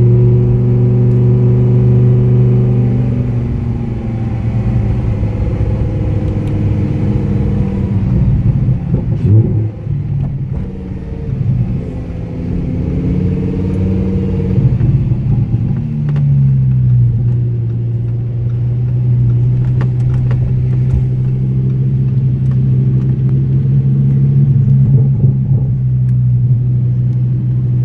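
Lamborghini Huracán's V10 engine heard from inside the cabin while driving at low, fairly steady revs, its note shifting down and up a few times with gear and speed changes.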